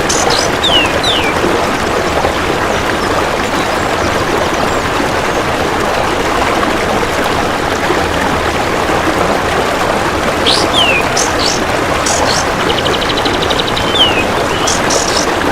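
Steady rushing of running water with small songbird calls laid over it. Short, falling chirps come near the start and again from about ten seconds in, and a brief rapid buzzing trill comes a little later.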